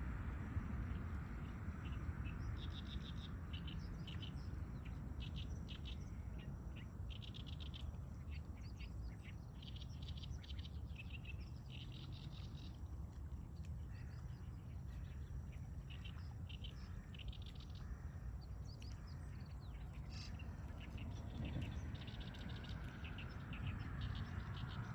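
Wild songbirds chirping and twittering, many short high notes from several birds, over a steady low rumble.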